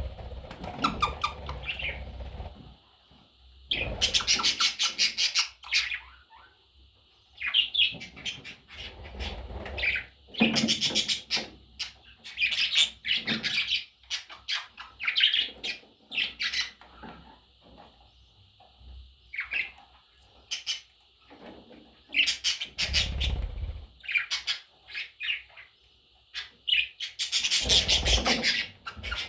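Pet parrots chirping and squawking in short, scattered bursts, with a few louder bursts of rapid wing flapping.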